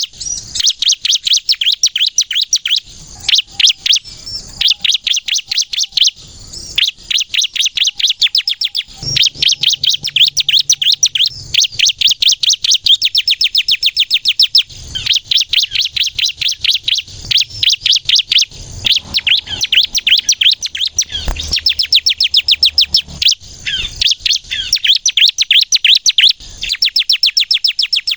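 Ciblek kristal, a prinia, singing loudly in long runs of rapid, high chirping notes, broken every few seconds by short pauses.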